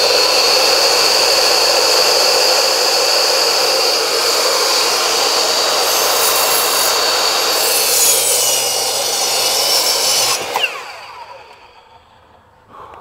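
Electric power saw cutting steadily with a high whine, then released about ten and a half seconds in, its motor winding down in a falling whine.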